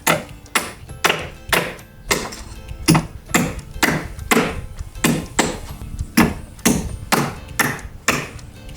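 A regular knocking, about two sharp strikes a second, over background music.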